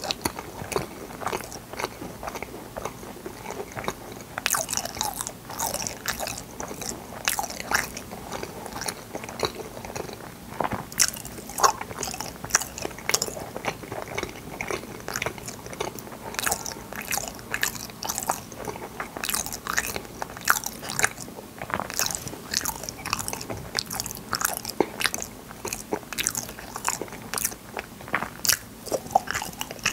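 Someone chewing and biting fruit yanggaeng (firm Korean sweet jelly), a run of many short, sharp crunches and clicks at an uneven pace.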